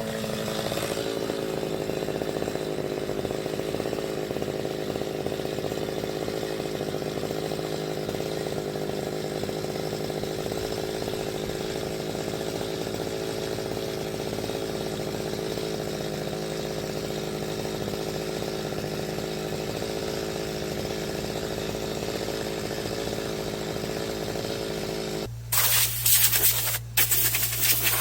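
A power tool running steadily for most of the time, a motor drone with no let-up. About three seconds before the end it cuts out and gives way to loud, broken hissing in several short bursts over a low hum.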